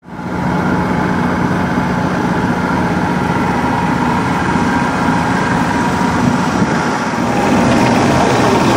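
An engine running steadily, fading in at the start and growing a little louder near the end.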